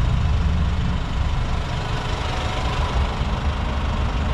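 Dongfeng DF6 pickup's 2.3-litre diesel engine idling with a steady low rumble.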